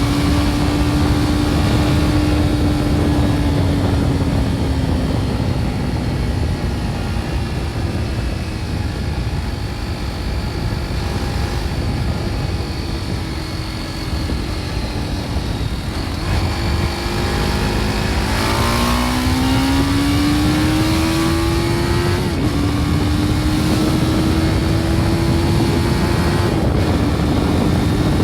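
BMW G310 R's single-cylinder engine through its original exhaust at road speed, over a rush of wind noise. The engine note holds and slowly sags as the bike eases off, then climbs as it accelerates, with two upshifts in the last third where the pitch drops and rises again.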